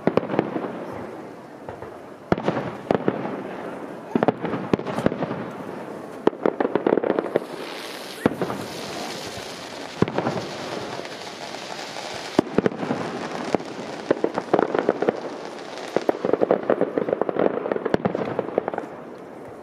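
Aerial fireworks display: shells bursting in an irregular run of sharp bangs and rumbling booms, with a few seconds of hiss in the middle.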